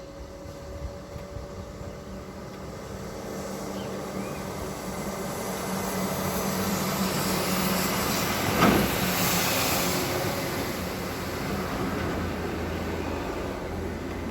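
A motor vehicle passing close by: its engine and tyre noise swell to a peak about nine seconds in, with a brief sharp knock at the loudest point, then fade away.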